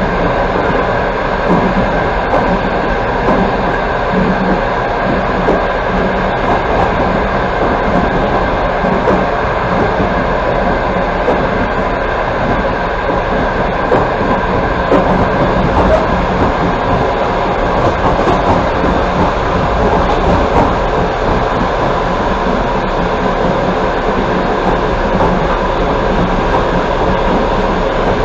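Passenger train running at speed, heard from inside a carriage: a steady rolling noise of wheels on rails with a faint clatter of wheels over rail joints.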